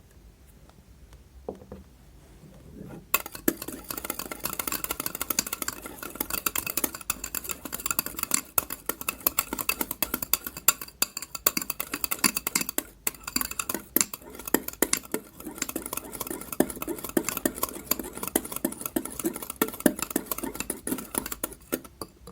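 Lifebuoy soap-bar slime being stirred and worked in a bowl: a dense run of wet clicks, crackles and scrapes starts about three seconds in and goes on until just before the end.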